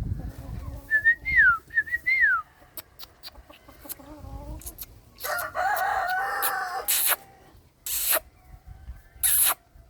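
Chickens calling: a rooster crows once about five seconds in. Short high rising-and-falling calls come earlier, and a few short harsh squawks follow near the end.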